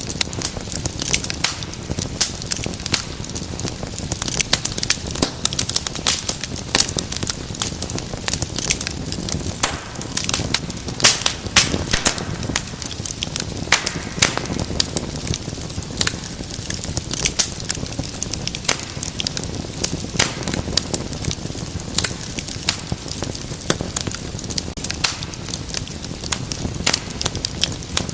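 Wood fire in a fireplace crackling and popping, with frequent sharp snaps over a low, steady rumble of the flames.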